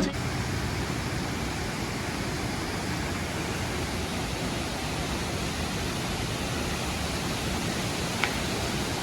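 Waterfall running: a steady, even rush of falling water. A single brief high chirp sounds about eight seconds in.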